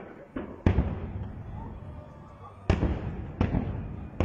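Aerial firework shells bursting in the sky: about six sharp booms at uneven gaps, each trailing off in a low rolling rumble, with the heaviest bangs about a second in and near the three-second mark.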